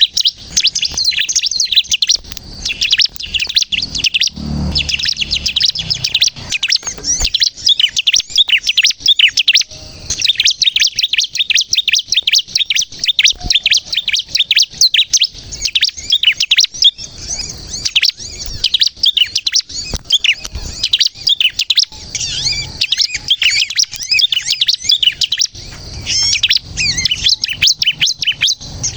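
Bar-winged prinia (ciblek kristal) singing nonstop: a dense, rapid stream of high, sharp chirps and trills with no pauses, the 'gacor' song used as a lure for wild ciblek.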